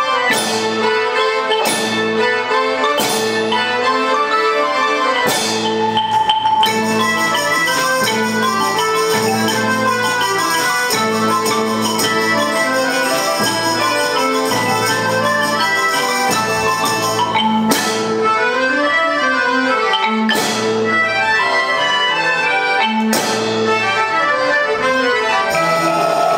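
Children's band playing music, with quick runs of notes on mallet percussion such as xylophone and sharp strikes that ring on every second or so early on, again near the end, and a sustained high shimmer through the middle.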